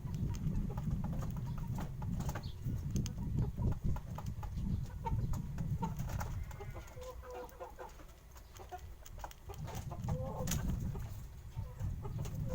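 Chickens clucking, with many scattered clicks and a steady low rumble.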